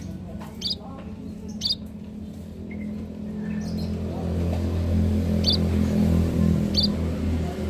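Munias (pipit emprit) giving four short, high chirps, spaced irregularly. Under them runs a steady low engine-like hum that grows louder about halfway through.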